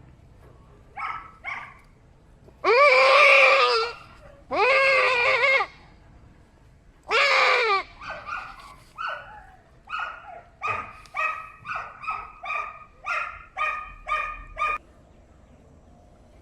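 Goat bleating loudly: two short bleats, then three long drawn-out cries, then a run of short rapid bleats, about one and a half a second.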